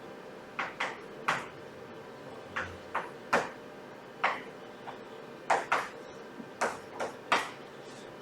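Irregular light taps and clicks, about a dozen, over a steady low room hum.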